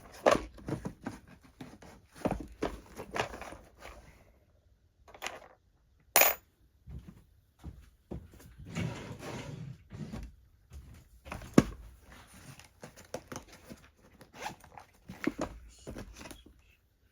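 Handling noise of tools and small parts: irregular clicks, rattles and scrapes as a screwdriver bit is tried in the screws of an original Xbox, with a sharp click about eleven and a half seconds in.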